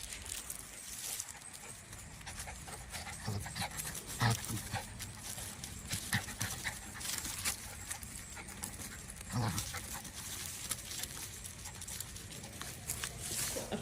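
A dog panting, with scattered clicks and a few soft thumps.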